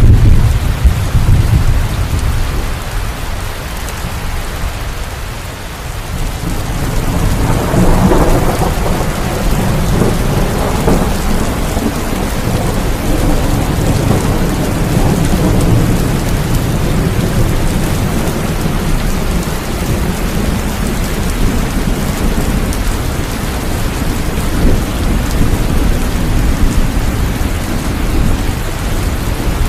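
Steady heavy rain with rolling thunder. A long thunder rumble swells about a quarter of the way in and slowly dies away under the rain.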